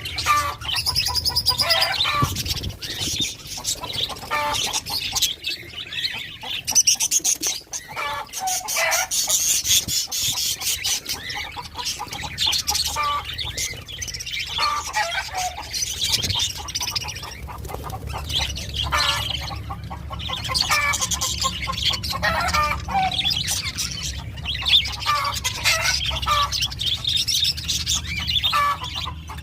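Pet parrots calling and chattering: many short, repeated squawks and chirps throughout, over a low steady hum.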